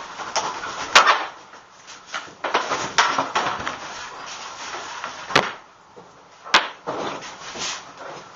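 Rubbing and scraping of wood being worked, with three sharp knocks: about a second in, just past five seconds, and at six and a half seconds.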